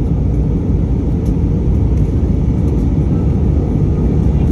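Steady cabin noise inside an Airbus A319 airliner on its final descent: an even, deep rush of engine and airflow noise with no breaks or bumps.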